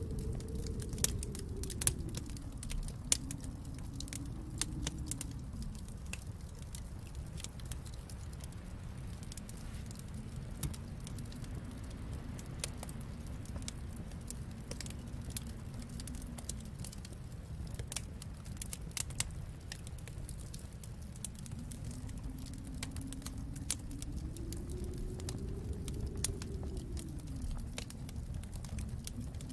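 Wood fire crackling, with scattered sharp pops over a low, steady rumble that slowly swells and eases.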